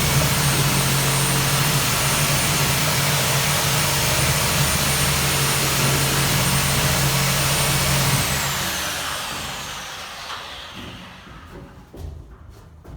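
Electric power tool motor running steadily with a steady whine. About eight seconds in it is switched off and winds down, the whine falling in pitch and fading over a few seconds, followed by a few faint knocks.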